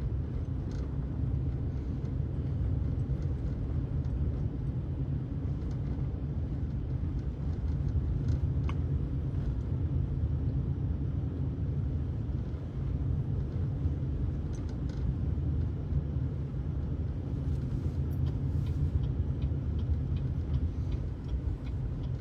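Steady low rumble of a car's engine and tyres on snow and slush, heard from inside the cabin while driving. Near the end a turn signal starts ticking at an even pace.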